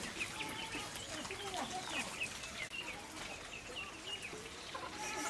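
Chickens clucking, with short high chirping calls repeating every half second or so.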